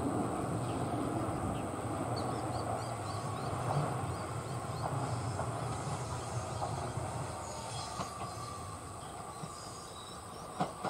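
JR West 227 series electric train running in on the rails with a steady low rumble that eases slightly. A thin high tone comes in about eight seconds in, and there are a couple of sharp clacks near the end.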